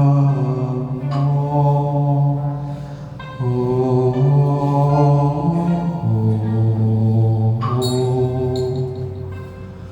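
A low male voice chanting in long, held notes that step slowly from pitch to pitch, with a few brief sharp strikes near the end.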